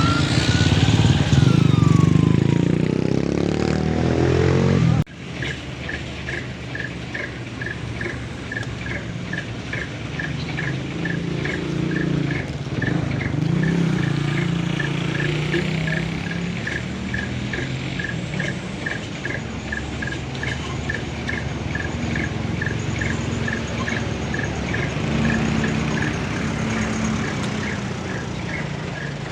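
Heavy truck engine running loud under load for about five seconds, its pitch falling, then a sudden drop to a quieter truck engine running steadily with a fast regular ticking, about two ticks a second.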